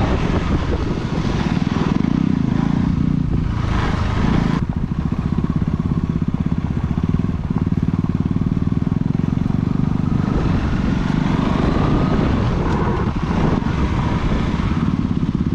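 Motorcycle engine running steadily under way on a dirt trail, a continuous loud engine note with a short change in tone a little over four seconds in.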